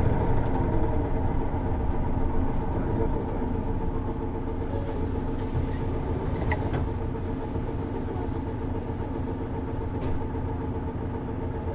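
Isuzu Erga city bus's six-cylinder diesel heard from inside the cabin. It runs with a steady whining note that falls in pitch over the first few seconds and eases in level. This engine has a characteristic abnormal noise, a tendency also seen in other PKG Ergas, especially automatics.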